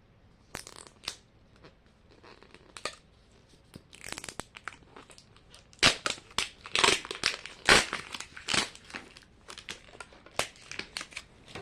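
Plastic wrapping of a Mini Brands capsule ball being torn open and crinkled by hand, in irregular crackling bursts that grow busier about halfway through.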